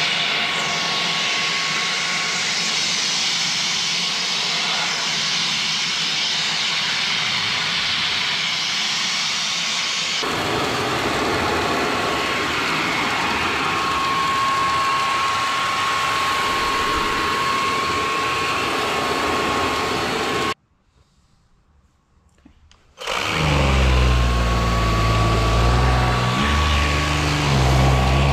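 Samsung Jet 95 cordless stick vacuum running, a steady rushing noise with a thin high whine. The sound changes abruptly about ten seconds in and cuts out for about two seconds past the twenty-second mark. It then comes back louder with a deep low hum under the whine.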